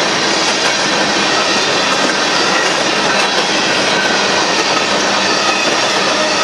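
Union Pacific coal train's hopper cars rolling past, a steady rumble and clatter of steel wheels on the rails.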